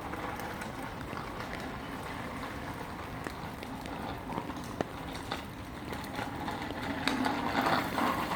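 Steady wet outdoor noise of rain and water, with scattered light drop-like clicks; it grows louder about seven seconds in.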